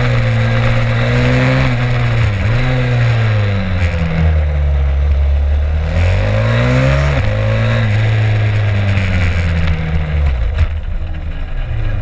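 Stomp 140 pit bike's single-cylinder four-stroke engine running hard on the track, heard onboard with wind noise, its pitch rising and falling as the throttle is worked. The pitch drops sharply twice, about two and a half and seven seconds in, and the engine falls to a lower, rougher note near the end.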